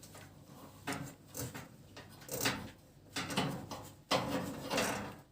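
Handling noise from taking the small brass burner jet out of a gas stove burner: several short scrapes and clicks of metal parts, the longest about four seconds in.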